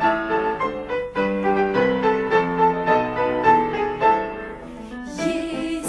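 Instrumental break in a song: piano playing a melody over chords, note by note, with the accompaniment changing to a fuller, wavering texture about five seconds in.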